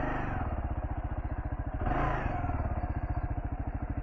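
Kawasaki KLR650's single-cylinder four-stroke engine idling with an even, rapid beat, swelling briefly at the start and again about two seconds in, as from light throttle blips.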